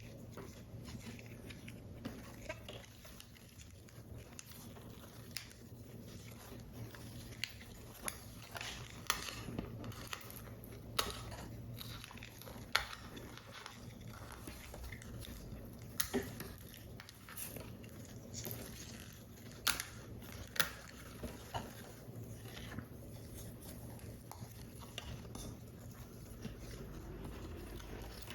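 Paper model pieces being handled and assembled by hand: scattered light taps, clicks and rustles of card paper, a few sharper ticks among them, over a steady low hum.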